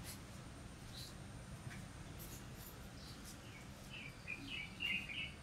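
Small birds chirping: a few scattered chirps, then a quick run of short chirps near the end, over a faint low steady hum.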